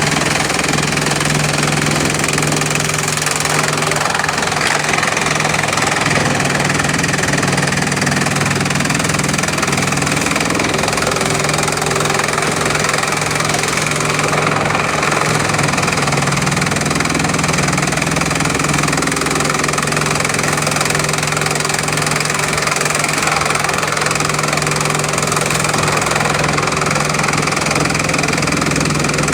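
Bamboo-crushing machine running with a steady, unchanging mechanical drone and low hum.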